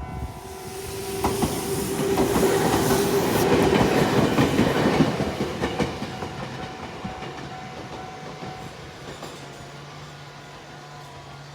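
Nankai Koya Line train passing over a level crossing, its wheels clattering over the rail joints. It is loudest from about two to five seconds in and fades away after that. The crossing's warning bell keeps ringing faintly underneath.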